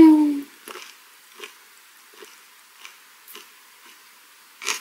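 Close-miked chewing of a mouthful of gwamegi (half-dried herring) wrap with the mouth closed: small wet clicks about every two-thirds of a second, with a louder crunch near the end. It opens with a short hummed "mmm" rising then falling in pitch.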